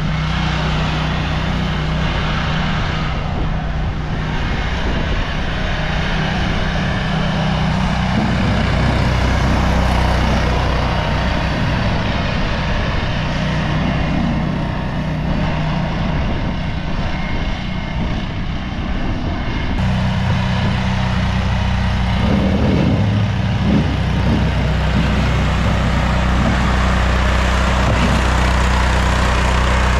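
A vehicle engine running steadily at a constant speed, with an abrupt change in the sound about twenty seconds in.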